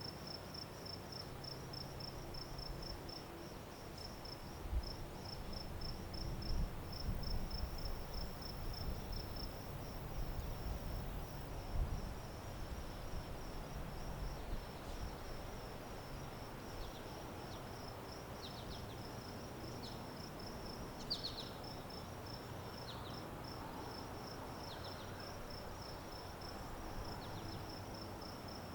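A cricket chirping steadily in a fast, even pulse of high notes, over a low outdoor rumble with a few soft knocks in the first half. Fainter short chirps from another insect or bird come in now and then in the second half.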